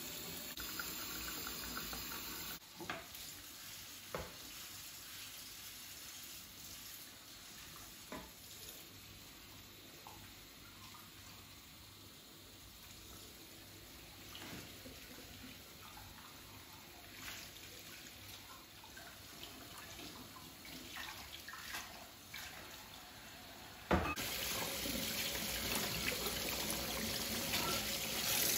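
Water running from a tap into a sink, with scattered knocks and clinks. The water gets suddenly louder near the end.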